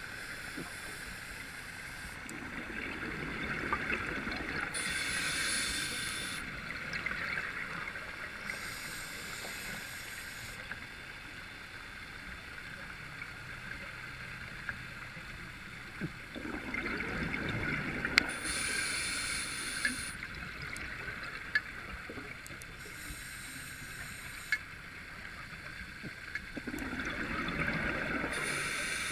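Scuba diver breathing through a regulator underwater: hissing breaths and swells of exhaled bubbles recur every few seconds, with a few sharp clicks.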